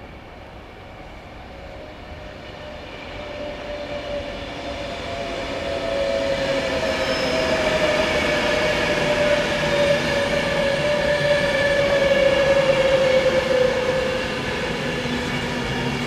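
Electric train approaching and slowing through the station: a rising rumble joined by a whine that slowly falls in pitch as it slows.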